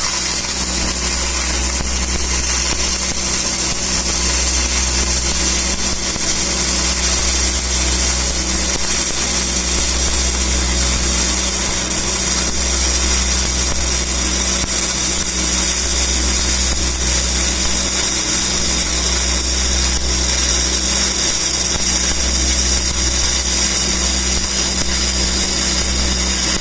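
Shielded metal arc (stick) welding with an E7010 cellulosic rod, running a downhill root pass. The arc gives a steady crackling hiss without a break, over a constant low hum.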